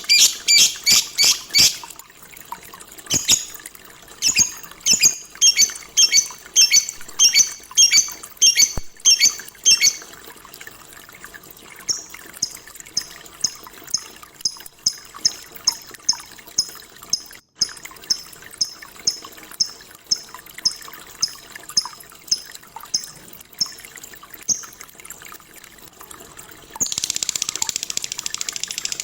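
Lovebird calling in rapid series of sharp, high chirps, several a second, with a fainter, quicker run of chirps in the middle. Near the end the chirps give way to a dense, continuous rush of high sound.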